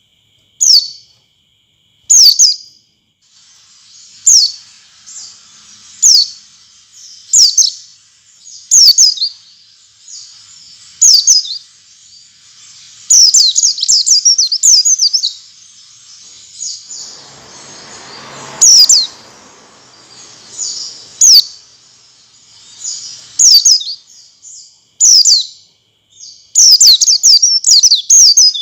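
White-eye (pleci) calling: short, high, sharply falling chirps every second or two, with quicker runs of twittering chatter in places. A faint steady high tone runs underneath, and a brief hiss comes about two-thirds of the way through.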